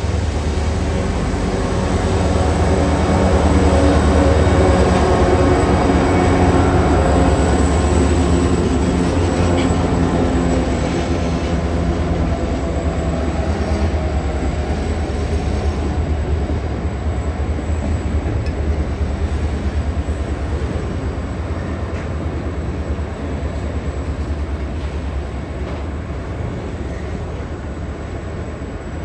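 Aurizon G535, a G-class diesel locomotive, passing close with its engine running, loudest about four seconds in, its engine note dropping in pitch as it goes by. A long string of empty container flat wagons then rolls past on the rails, the sound slowly fading.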